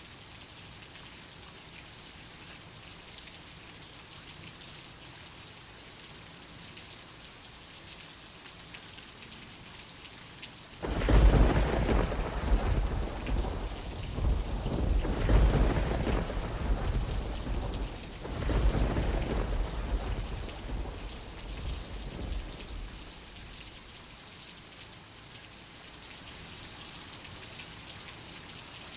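Steady rain hiss, broken about a third of the way in by a sudden thunderclap. The thunder rolls on in several swells for about twelve seconds, then fades back to the rain.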